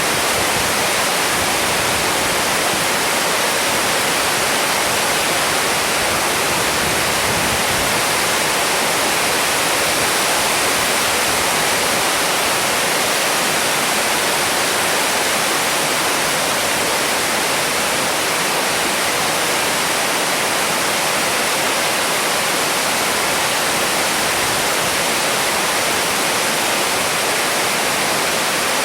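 Heavy rain falling steadily during a storm: a dense, even hiss with no single drops or thunder standing out.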